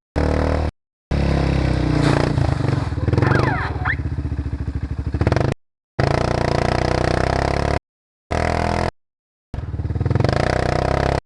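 ATV engines running and revving, cut into short stretches that stop suddenly into silence and start again, with a brief rise in pitch in the middle.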